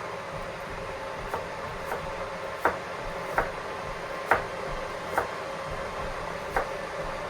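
About seven light, sharp knocks at uneven intervals over a steady background hum.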